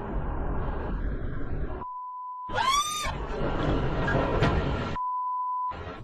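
Two censor bleeps, each a steady single-pitched beep of under a second, one about two seconds in and one near the end, laid over dashcam cabin and road noise. Between them comes a loud short burst whose pitch sweeps up and down.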